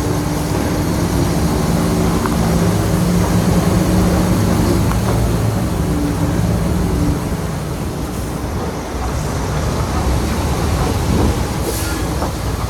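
Heavy diesel engine of earthmoving machinery running under load. It holds a steady engine note for about the first half, then turns into a rougher, noisier rumble.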